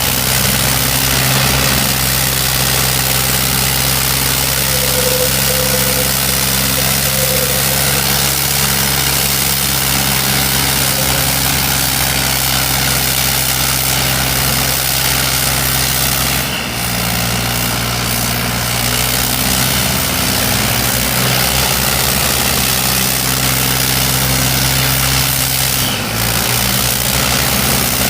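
Diesel tractor engines running steadily. The engine note shifts and dips briefly about 16 and 26 seconds in.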